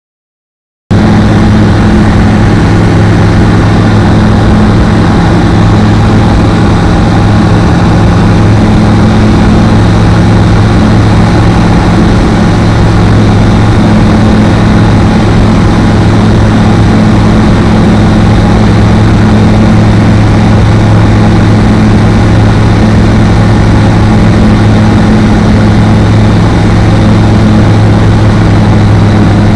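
Apollo Fox ultralight aircraft's engine and propeller droning loud and steady, cutting in suddenly about a second in and holding an even pitch throughout.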